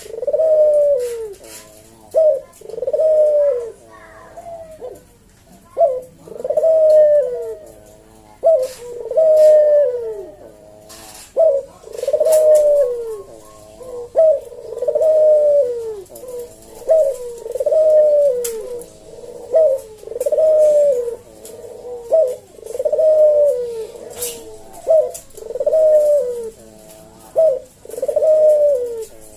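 A puter (Barbary dove) cooing its 'kuk-deruk' call over and over in a slow, unhurried rhythm, about one coo every second or so. Each coo is a low call that rises and then falls in pitch, often with a short note just before it.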